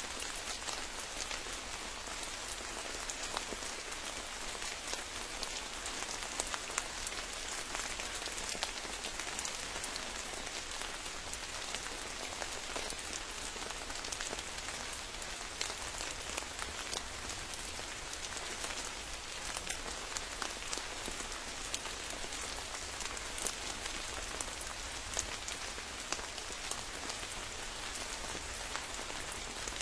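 Steady rain falling, an even hiss with many sharp single drop hits scattered through it.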